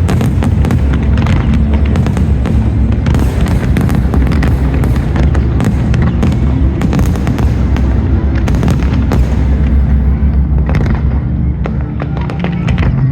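Aerial fireworks display: a dense run of bangs and crackling bursts, thinning out near the end, over loud accompanying show music.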